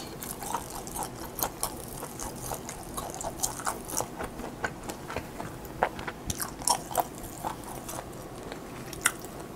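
Close-miked chewing of a mouthful of German-style homemade ham: irregular wet mouth clicks and smacks, several a second.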